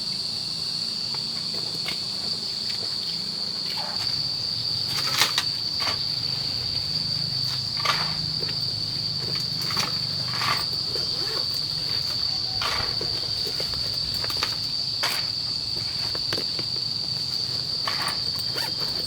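A steady, high-pitched insect chorus, like crickets, with scattered knocks and scrapes of manual work, about one every couple of seconds.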